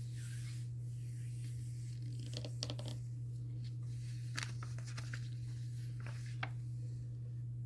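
Paper picture-book pages being handled and turned: a few faint rustles and soft clicks over a steady low electrical hum.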